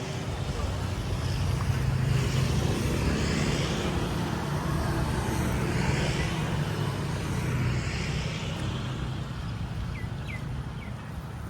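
A motor vehicle's engine running close by over a steady wash of traffic noise, growing louder about two seconds in and easing off near the end.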